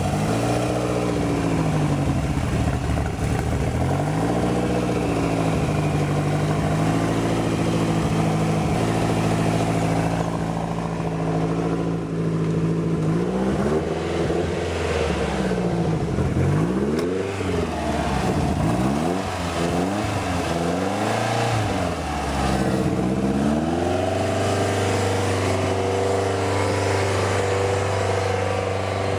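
1999 Lotus Esprit's 3.5-litre twin-turbo V8 running after a cold start, its throttle blipped repeatedly. It holds a raised speed for a while, then gives a quick run of revs, and settles to a lower steady idle about 24 seconds in. This is the rough cold idle of the title.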